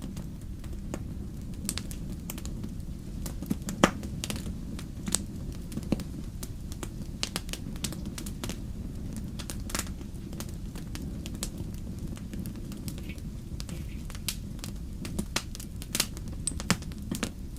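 Wood fire burning in a fireplace: a steady low rumble of flames with irregular sharp crackles and pops, the loudest pop about four seconds in and a flurry of pops near the end.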